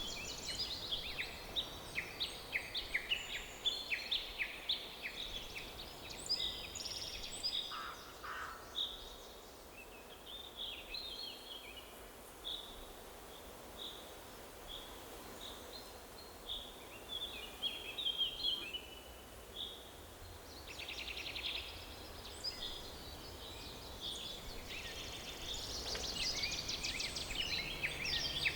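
Forest birdsong: several birds chirping and trilling over a faint steady background hiss. Busy at first, thinning out after about eight seconds, with a fast rattling trill a little past the middle before the singing picks up again near the end.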